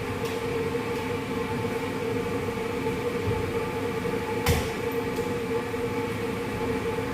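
Steady mechanical hum while cooking in a kitchen, holding a low tone, with one sharp knock about four and a half seconds in.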